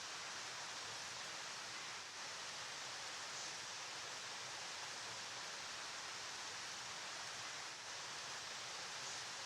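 A river flowing: a steady, even rushing hiss of moving water, brightest in the high range, with no distinct splashes or breaks.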